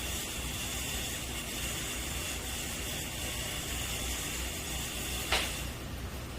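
A steady hiss over a low hum, cut off by a click about five seconds in.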